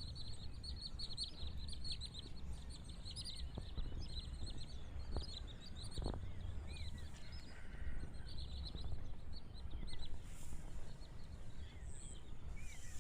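Many small birds chirping, short high calls coming thick and fast over a low background rumble, with a few faint ticks around the middle.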